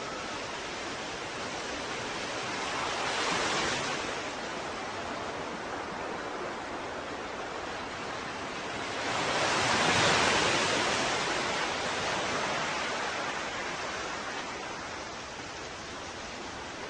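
Ocean waves washing onto a shore: a steady hiss of surf with a smaller wave breaking about three seconds in and a bigger one about ten seconds in, its wash slowly fading away.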